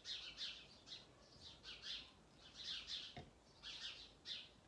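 Faint bird chirping and singing outdoors: quick clusters of high chirps repeating every second or so, with a soft knock a little after three seconds in.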